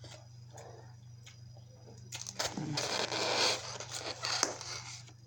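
Eating noises close to the microphone: about two seconds in, a couple of seconds of crunching and crackling with small clicks as food is handled and bitten. A low steady electrical hum runs underneath.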